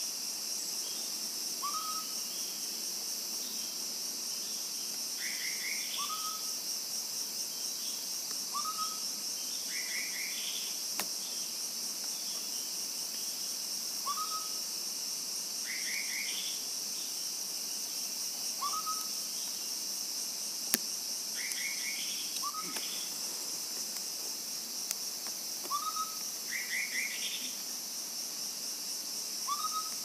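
Cucak kopi calls repeating in a regular pattern: a short up-flicked whistle every two to three seconds, alternating with quick clusters of higher chattering notes. Under them is a steady high-pitched drone of insects. There is one sharp click about two-thirds of the way in.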